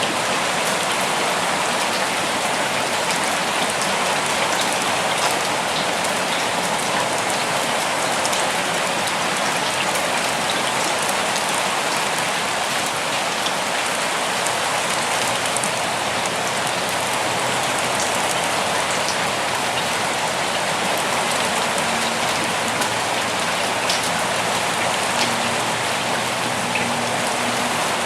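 Steady rain falling, an even hiss scattered with sharper ticks of single drops.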